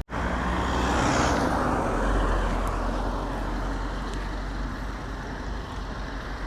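Outdoor road noise with a low wind rumble. After a brief cut-out at the very start, a rushing noise swells about a second in and slowly fades over the next few seconds.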